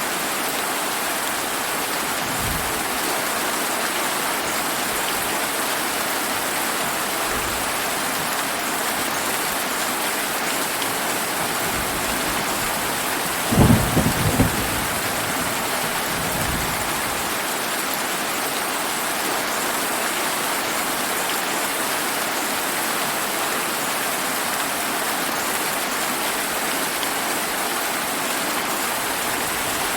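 Steady rain falling, with a thunderclap about halfway through that rumbles for about a second. A few faint low rumbles of thunder come before and after it.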